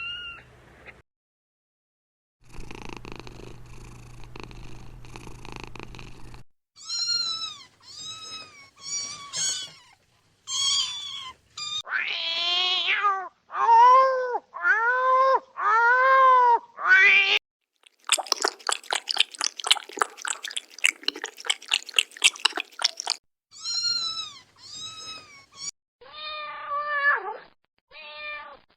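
Domestic cats and kittens meowing in several short series from different clips, each meow an arching, falling call. Near the start is a steady few seconds of low purring, and in the middle a few seconds of fast, rattling pulses.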